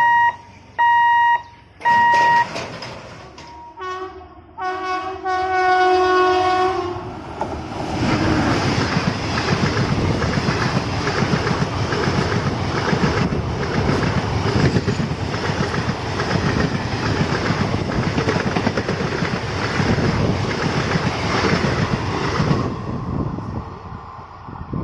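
An electronic warning beeper sounds twice, then the express train's horn gives a blast of about two and a half seconds. The train then passes for about fifteen seconds with a steady rhythmic clickety-clack of wheels over the rail joints, its noise dropping off sharply near the end as the last coach goes by.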